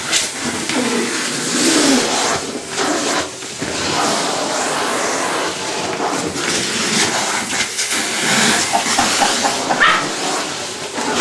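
Vacuum cleaner running while a West Highland white terrier growls and barks at it.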